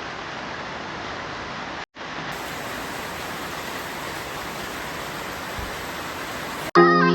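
Steady rain, an even hiss, cut to silence for a moment a little under two seconds in. Music starts abruptly near the end.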